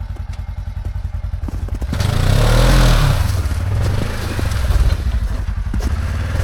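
Side-by-side UTV engine running with a rapid low pulse, then about two seconds in revving up and back down over about a second, with a rushing hiss, as the driver tries to power through deep snow. The driver eases off the throttle too soon: he lets off the gas too much.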